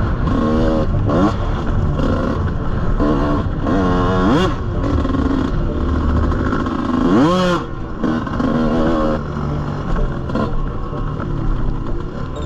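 Small off-road engine revving repeatedly, the pitch climbing sharply about half a second in, around four seconds and again about seven seconds in, between steadier running.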